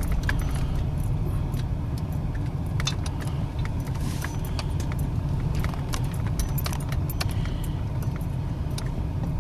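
Car cabin noise while driving: a steady low rumble, with frequent light, irregular clicks and jingles like keys rattling.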